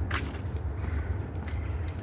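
Footsteps on a woodland trail, with one sharp crunch or brush of leaves just after the start and a few lighter steps, over a steady low rumble.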